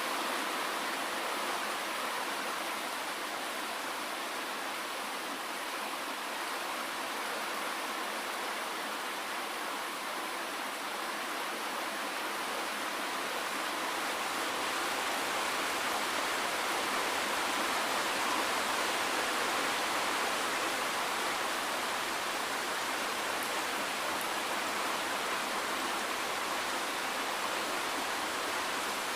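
Steady, dense rainfall: an even hiss of countless drops with no single drop standing out.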